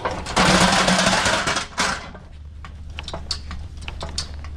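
Manual pallet jack being worked under a load: a loud rattling rush lasting about a second and a half, a second short one, then a string of light clicks and knocks as the handle and forks move.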